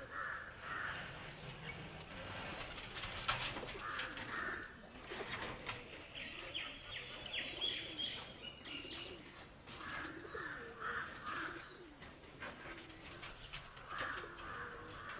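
Birds calling: several separate bouts of short repeated notes, with scattered clicks in between.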